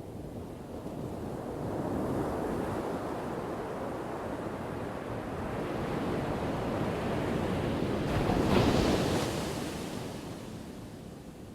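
Ocean waves crashing: the surf swells, breaks loudest about eight and a half seconds in, then washes back and fades.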